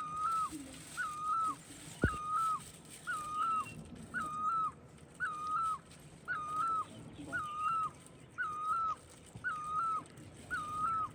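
A bird calling one whistled note over and over, about once a second, each note hooking up at the start and dropping away at the end. A single sharp knock about two seconds in.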